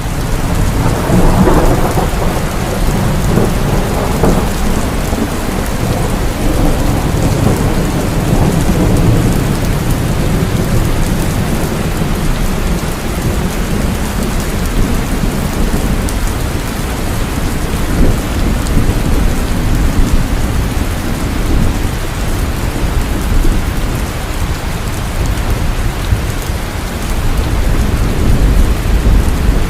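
Heavy rain falling steadily, with rolling thunder rumbling low beneath it, heaviest in the first few seconds.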